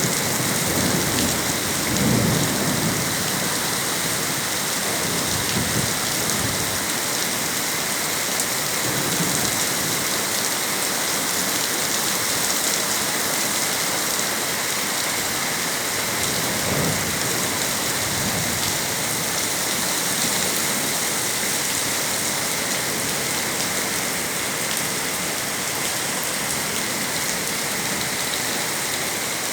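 Heavy rain falling steadily, a dense even hiss, with a few brief low thuds.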